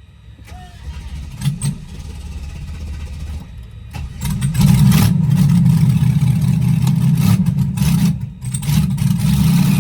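A freshly started LS V8 engine running: a low, steady rumble that gets much louder about four and a half seconds in, dips briefly near eight seconds, then comes back up.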